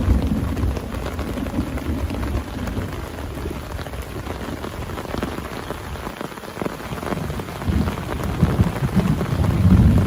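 Heavy rain falling steadily on a surface, a dense patter of drops, with a low rumble of thunder that fades over the first few seconds and swells again near the end.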